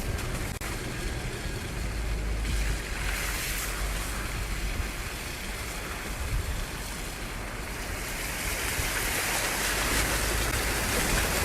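Steady rush of storm water with wind buffeting the microphone in a low rumble; the hiss of the water grows louder in the last few seconds.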